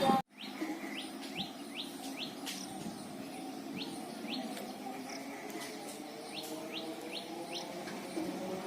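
A bird repeating short rising chirps, several a second in runs, over a steady low hum.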